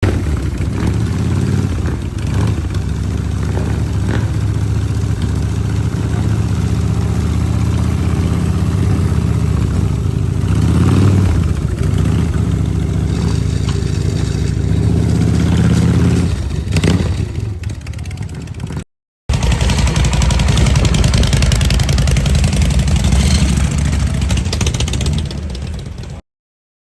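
Motorcycle engine running, its pitch rising and falling with the throttle a little past halfway. After a short break it comes back rougher and noisier, then cuts off shortly before the end.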